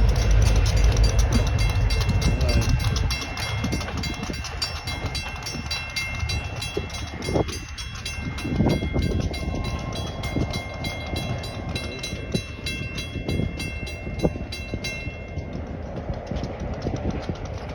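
Pair of EMD GP38-2 diesel-electric locomotives running light without cars. The low engine rumble is loud for the first three seconds, then drops away, leaving steady clicking of wheels over rail joints.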